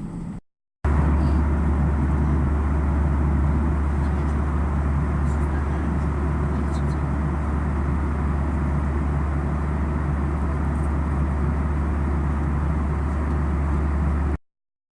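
Steady low rumble of a vehicle in motion, starting abruptly about a second in and cutting off suddenly near the end.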